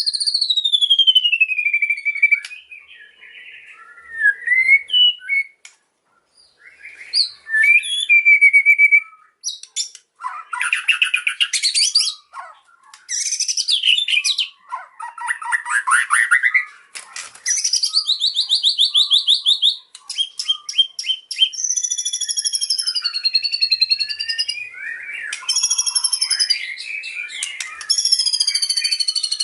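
White-rumped shama singing a varied song. It opens with a long falling whistle, then scattered short notes with brief pauses. From about ten seconds in come rapid trilled and chattering phrases, ending in fast rattling runs of repeated notes.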